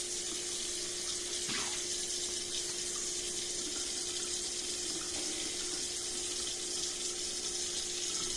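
Water running steadily from a tap: an even rushing hiss, with a steady low hum underneath.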